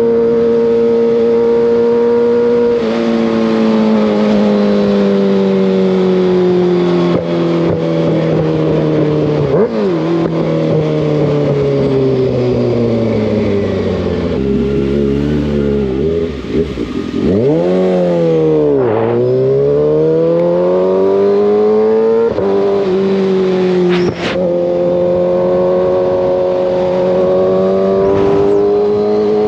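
Kawasaki ZX-6R inline-four motorcycle engine under way. It holds a steady note, then the revs fall gradually for about ten seconds as the bike slows. They dip low, climb again with an upshift past the middle, and settle back to a steady cruise.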